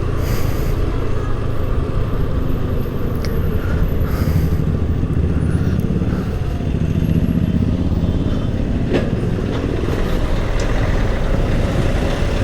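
Honda Activa 5G scooter riding along, with its small single-cylinder engine humming steadily under continuous road and wind rumble.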